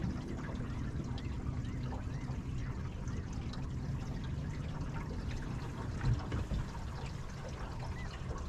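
Water trickling and lapping around an aluminum fishing boat over a steady low hum, with a single knock about six seconds in.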